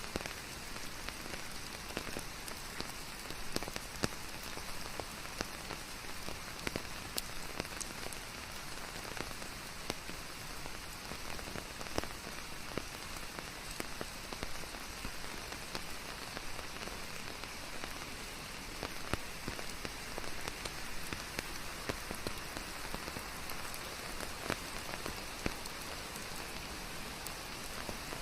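Steady rain falling: an even hiss, with many separate drops landing close by as sharp ticks scattered through it.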